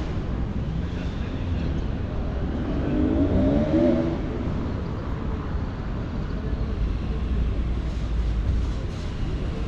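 City street traffic: a steady low rumble of passing vehicles, with a brief pitched, wavering sound about three seconds in.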